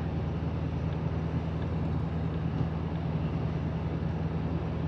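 Ford F-250 pickup cruising at about 50 mph, heard inside the cab: a steady low engine drone under an even wash of road and tyre noise.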